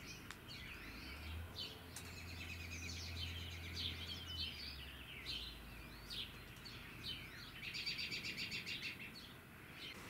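Wild birds chirping and singing: short, varied chirps throughout, with a fast trill of evenly repeated notes near the end.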